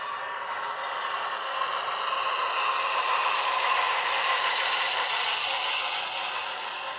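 Model train running on track: a steady mechanical whir and rattle.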